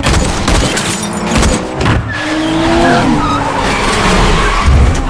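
Car chase sound effects: car engines revving hard with tyres squealing and skidding.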